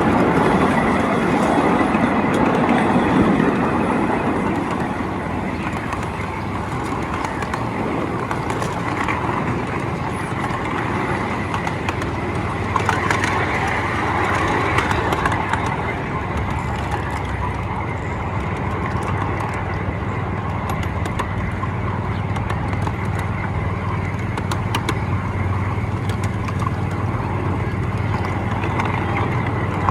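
Miniature ride-on train in motion: a steady rumble of wheels on the track and running gear, with a low hum and scattered sharp clicks.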